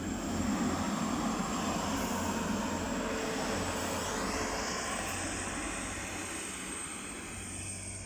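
TransPennine Express Class 185 diesel multiple unit pulling away, its diesel engines and wheels a broad rumble that slowly fades as the train recedes.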